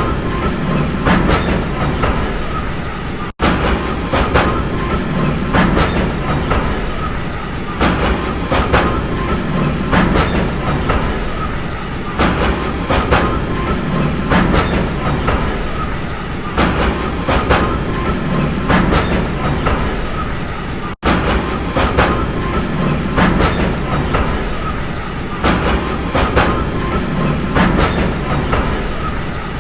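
Train running over jointed track: a steady rumble with clickety-clack as the wheels cross rail joints, in clusters of clicks every second or two. The sound cuts out for an instant twice.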